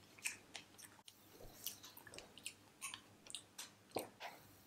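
Close-miked chewing of frozen strawberries: irregular wet mouth clicks and smacks, with a sharper bite about four seconds in.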